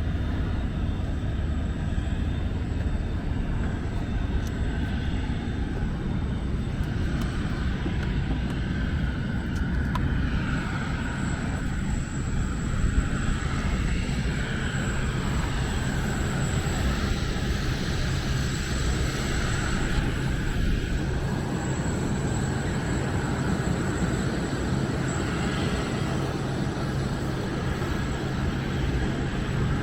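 Steady jet aircraft turbine noise: an even roar with a thin, steady high whine that holds without change.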